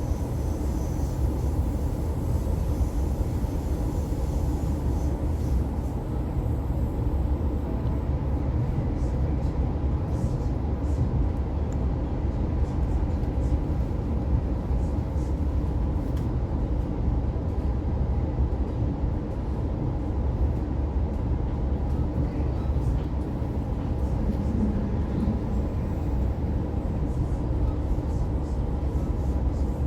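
Steady interior running noise of an Oscar H set electric intercity train in motion: a low rumble of wheels on the rails with a constant hum, heard inside the carriage.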